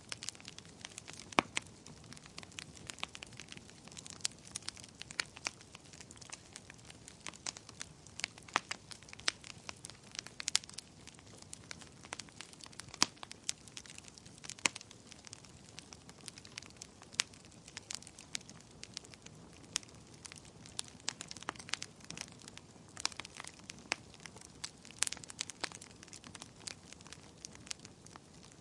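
Wood fire crackling: irregular sharp pops and snaps, a few louder than the rest, over a low steady hiss of burning.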